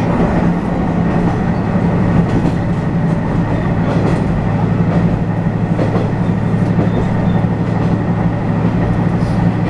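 Inside a moving diesel railcar: a steady engine drone over the continuous rumble of wheels on the rails, with occasional light clicks from the track.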